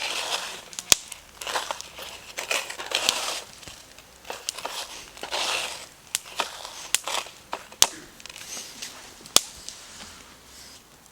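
Wood fire popping sharply now and then, with bursts of rustling, crinkling handling noise lasting about a second each.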